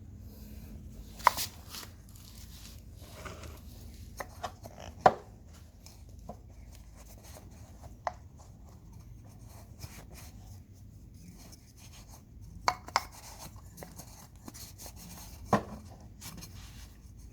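Scattered sharp knocks and clicks with faint rubbing in between, from tools and parts being handled. About five of the knocks stand out, two of them close together about two-thirds of the way in.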